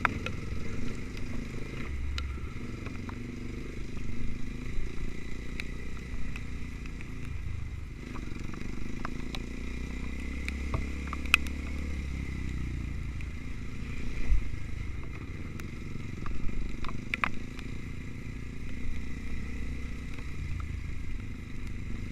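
Off-road trail motorcycle engine running steadily, with scattered clattering knocks and scrapes.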